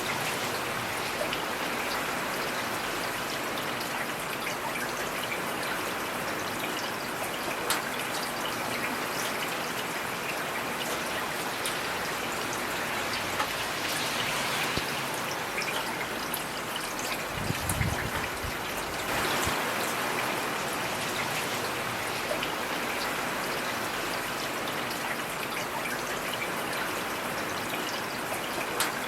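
Heavy rain falling steadily, with individual drops tapping sharply here and there. A brief low thump comes a little past halfway.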